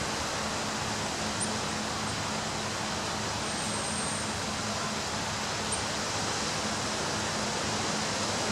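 Ocean surf: a steady, even wash of breaking waves on a beach.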